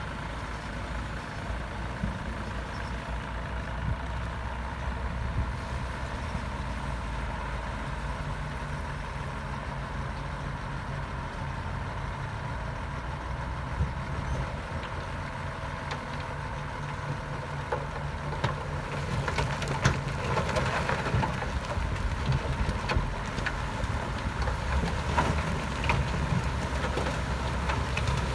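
Diesel engine of a Komatsu D68B crawler bulldozer running steadily at work. From about two-thirds of the way in, frequent knocks and clanks are added and it grows louder.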